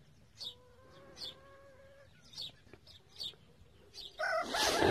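Roosters crowing: a faint, long crow in the first two seconds, then a loud crow starting near the end. High short chirps repeat about once a second throughout.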